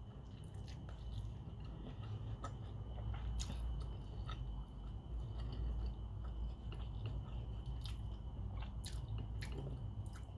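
A person chewing mouthfuls of rice and rendang: soft, irregular wet clicks and smacks of eating, over a low steady hum.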